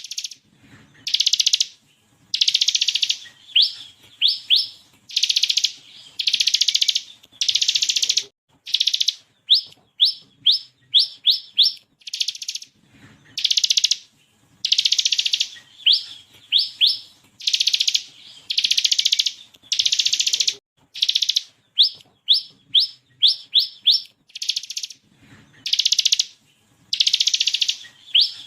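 Ciblek kristal (bar-winged prinia) singing: quick runs of three to five sharp upswept notes alternating with loud buzzy rattling bursts of about half a second to a second each, repeated over and over.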